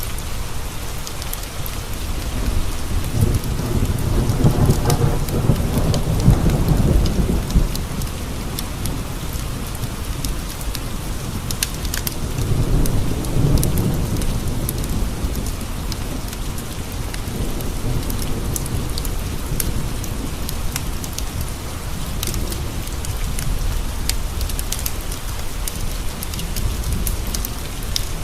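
Steady rain on window panes, with two long low rolls of thunder, one a few seconds in and another about twelve seconds in.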